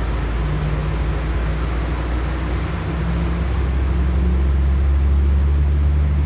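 Inside a LiAZ-6213.65 articulated city bus under way: a steady low engine drone over road and cabin noise, growing louder about halfway through.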